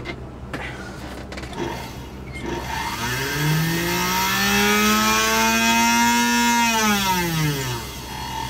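Singer 221 sewing machine motor, its belt removed, speeding up as the bakelite foot pedal is pressed, holding a steady whine for a few seconds, then winding down as the pedal is let off: the pedal's variable speed is working. A few clicks come before the motor starts.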